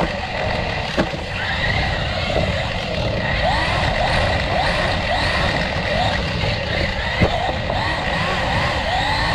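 Traxxas Rally RC car's electric motor whining up and down in quick repeated throttle blips. There are sharp knocks about a second in and again near seven seconds.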